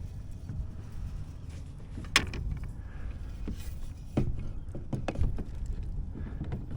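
A few scattered knocks and clicks from handling the catch and fishing gear in a kayak, the sharpest about two seconds in and a cluster around four to six seconds in, over a steady low rumble.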